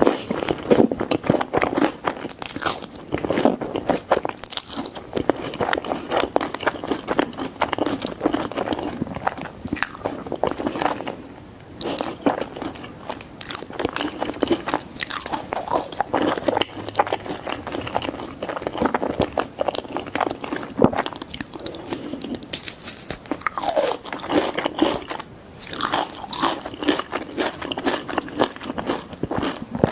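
Close-up eating sounds of pizza being bitten and chewed: continuous wet chewing with crisp crust crunching, pausing briefly twice.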